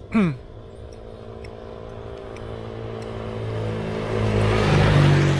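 A passing motor vehicle's engine drawing nearer, its steady hum growing louder for about four seconds and loudest near the end.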